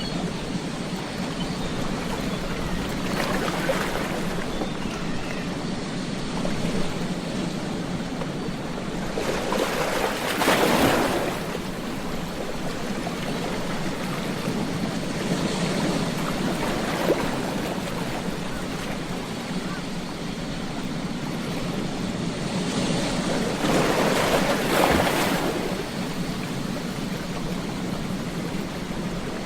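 Ocean surf washing onto a beach: a steady rush of water with waves swelling and breaking every several seconds, the loudest about ten seconds in and again near the end.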